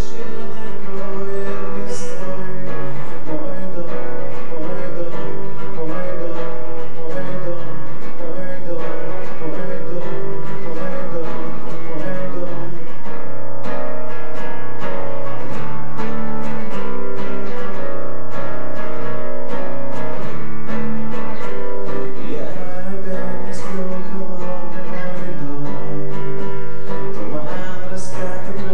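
Acoustic guitar playing a song in a steady, continuous passage with no lyrics.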